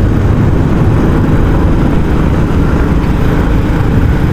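Royal Enfield Classic 350's single-cylinder engine running steadily through its stock exhaust while the motorcycle is ridden along the road.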